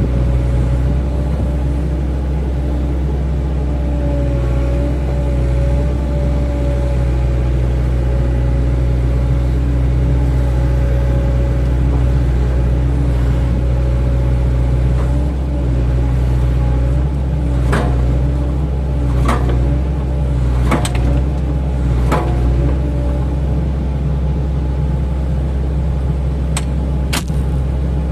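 Excavator diesel engine running steadily under work, with a wavering whine from the hydraulics over it. A few sharp knocks come in the second half, two of them close together near the end.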